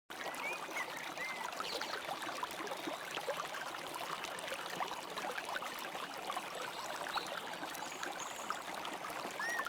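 Steady flowing water like a running stream, with a few faint high chirps near the start and again near the end.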